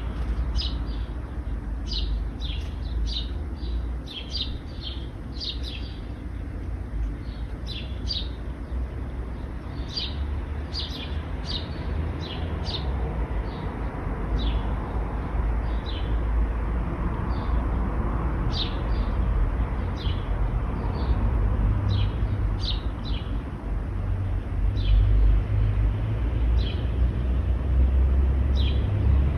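Small birds chirping in many short, high calls over a steady low rumble of road traffic. The traffic grows louder near the end.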